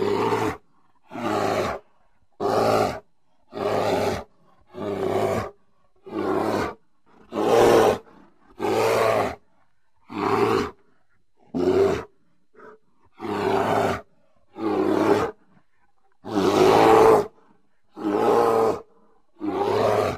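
A bear roaring over and over, about fifteen short, rough roars with silence between, coming roughly once a second with a slightly longer pause midway.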